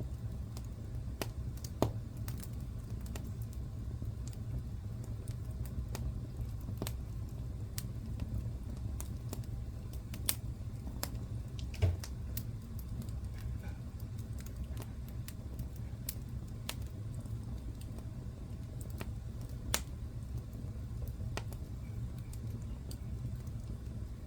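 Wood fire crackling in a fireplace: irregular sharp snaps and pops over a steady low rumble, with a handful of louder pops scattered through.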